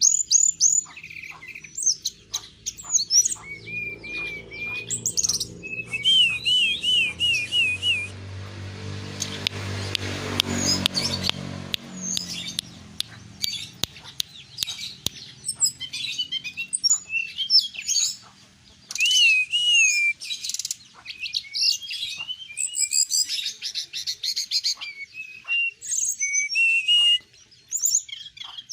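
A tame caged songbird singing without pause: quick high chirps, repeated warbling trills and sharp whistled notes. A low rumble swells and fades about ten seconds in.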